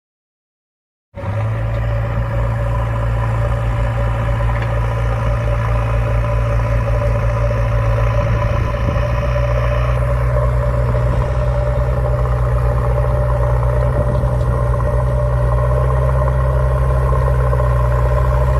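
An engine-like drone running steadily and evenly, starting abruptly about a second in after silence.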